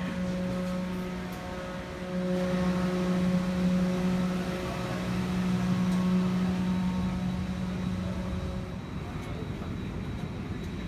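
A steady machine hum with a low tone and its overtones, growing louder about two seconds in and dying away about nine seconds in.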